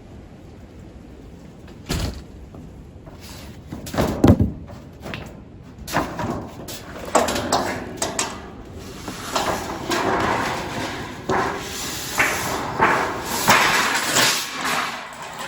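Loose pieces of sheet tin banging and scraping as they are dragged inside out of the wind. A couple of sharp knocks come first, then from about halfway a steady run of clattering scrapes and bangs.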